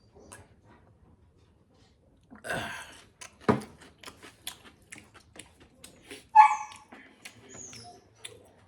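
Chewing and eating clicks from a mukbang meal of pork, with a short noisy burst and a sharp knock in the first half. About six seconds in comes one short, loud, pitched animal call.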